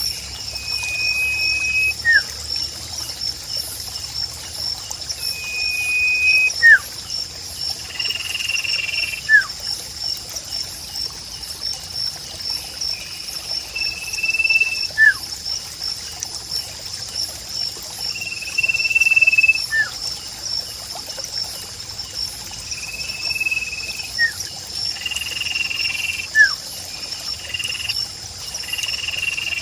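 Sirpu bird song over a trickling stream. A flat whistled note about a second long repeats every four to five seconds, each followed by a quick falling note, over a steady high pulsing trill.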